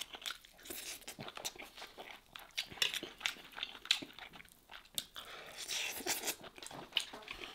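Close-miked eating sounds of a person chewing a mouthful of kabsa rice and lamb: irregular wet smacks and clicks of the mouth.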